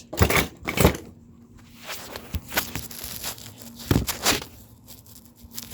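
Several quick pulls on the recoil starter cord of a Honda GCV170 push-mower engine, the engine turning over without catching.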